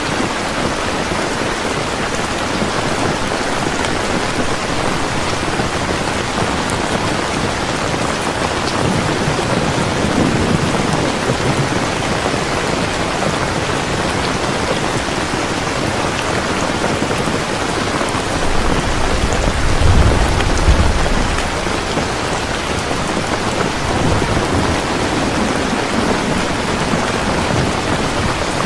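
Heavy rain falling steadily, with thunder rumbling in the background: a low rumble about a third of the way in and a louder, longer roll about two-thirds of the way through.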